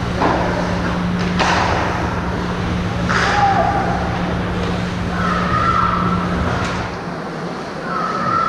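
Youth ice hockey game play in an arena: skates scraping on the ice and sharp knocks of sticks and puck against the boards, over a steady low hum that drops out near the end, with a few short high calls.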